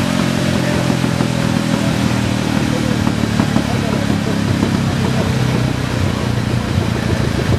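Motorcycle engine running steadily on a dynamometer, its exhaust note a constant low hum, with crowd voices underneath.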